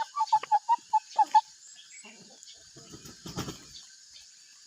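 Chickens clucking: a quick run of about eight short clucks in the first second and a half, then a brief low noise around three seconds in.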